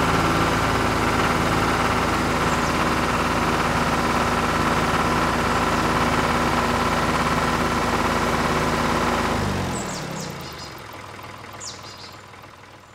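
Small electric motor and gears of a homemade miniature tractor running with a steady whine, then slowing with falling pitch and fading away about ten seconds in.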